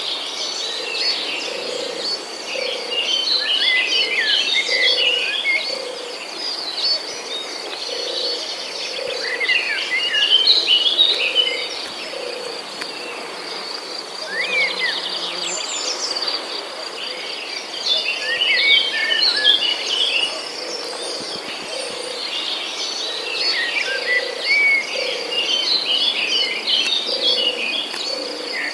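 Several birds chirping and calling in bursts over a steady, high insect trill, with a low note repeating about once a second underneath.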